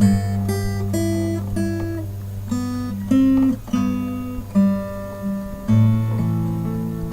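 Acoustic guitar music: plucked notes over held bass notes at an unhurried pace.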